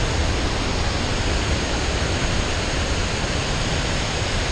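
Rushing water of a waterfall and fast river current, a loud steady roar of white water.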